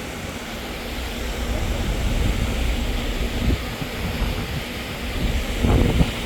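Steady low rumble and wind noise on the microphone, with a faint steady hum underneath and a louder gust near the end.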